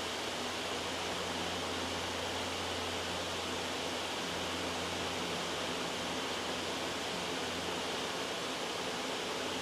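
Loud, steady white-noise track: an even, unchanging hiss across the whole range.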